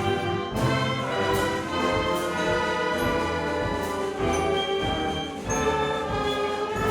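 Symphonic concert band playing a full, loud passage with brass and woodwinds together, coming in at full volume right at the start.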